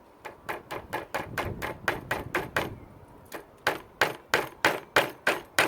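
Small hammer tapping a tack into the side of a wooden beehive frame: quick light taps, about four a second, in two runs with a short pause about two and a half seconds in, the second run louder.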